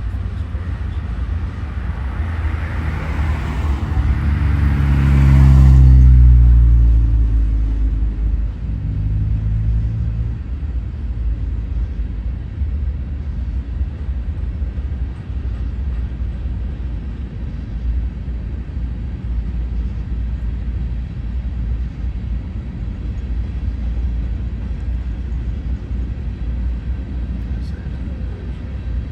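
Norfolk Southern freight train passing: a diesel locomotive goes by, loudest about six seconds in, its engine note dropping in pitch as it passes. A steady low rumble of the train rolling by follows.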